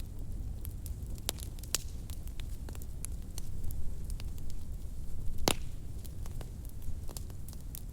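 Wood fire crackling in a fireplace: irregular small pops and snaps over a low steady rumble of the flames, with one sharper, louder pop a little past the middle.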